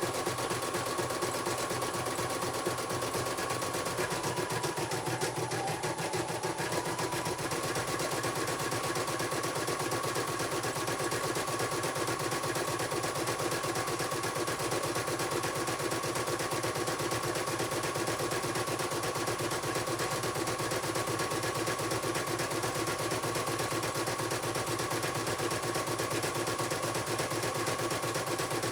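A CNY portable computerized embroidery machine stitching at speed: a steady, rapid rattle of needle strokes over a motor whine. The whine's pitch dips briefly about five seconds in and then recovers.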